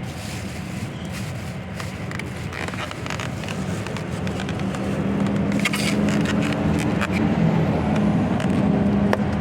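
Car engine running steadily, getting louder from about halfway through, with a few light clicks and rustles over it.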